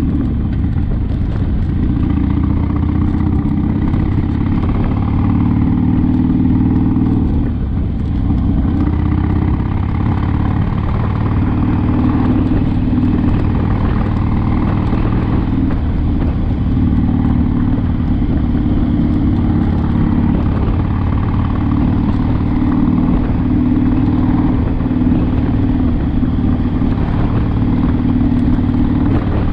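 Harley-Davidson Sportster's V-twin engine running under way, its note rising and falling with speed, with a brief dip in level about seven seconds in.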